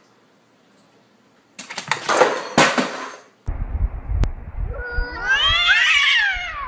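A toy remote-control helicopter's rotor whirs and clatters for about two seconds. Then, over low wind rumble on the microphone, a cat lets out one long, loud yowl that rises and then falls in pitch: a cat's threat call in a standoff with another cat.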